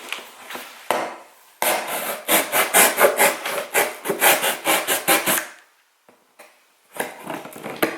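Rapid scratching or rasping strokes, about four a second, for several seconds, with a few separate scrapes before and after.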